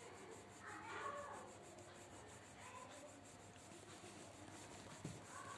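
Faint rubbing of a colouring stick on paper as a drawing is coloured in.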